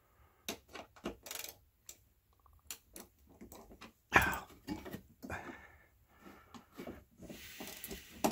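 Irregular small clicks and clinks of hand work on an oven door's metal hinge hardware and screws, with one louder knock about four seconds in.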